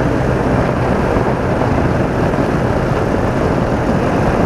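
BMW R80RT's air-cooled flat-twin boxer engine running at a steady road speed, under heavy wind rush on the microphone.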